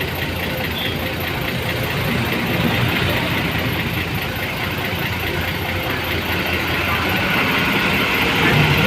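A large engine running steadily with a low hum and a noisy hiss over it, getting a little louder near the end.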